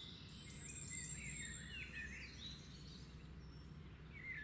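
Faint chirping of small birds, a run of quick rising and falling calls, over a low steady hum.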